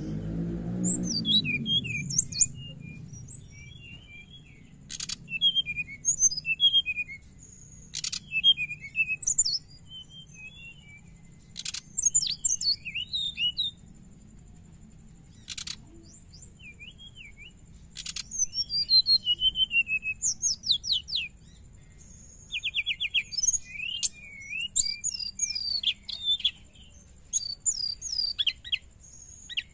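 Brown-chested jungle flycatcher singing in bouts of rapid, high twittering chirps and trills, with short pauses between bouts. A few sharp clicks fall between the phrases, and faint music fades out in the first couple of seconds.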